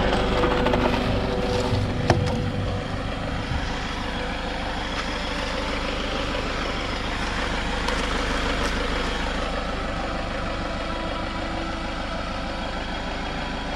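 A vehicle engine idling steadily, a low even rumble, with a single sharp knock about two seconds in.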